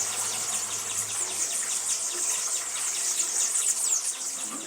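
A steady outdoor chorus of high-pitched chirping from small birds and insects, many short chirps a second.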